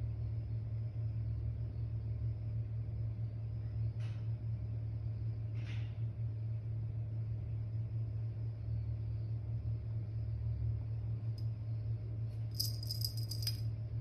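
A steady low hum, with two soft brief rustles and, near the end, a short jingling rattle of a cat's toy being shaken.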